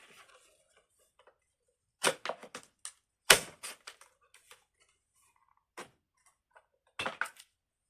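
Scissors poking a hole into and cutting plastic packaging: clusters of sharp clicks and crinkly crackles, the loudest a sharp snap a little over three seconds in.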